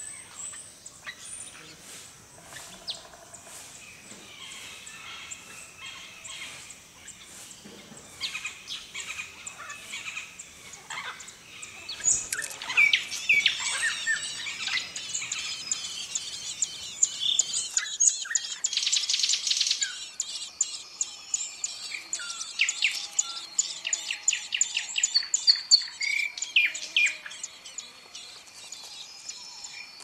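Songbirds chirping and calling. The calls are fainter and scattered at first, then much louder from about twelve seconds in, with fast runs of short, sharp chirps.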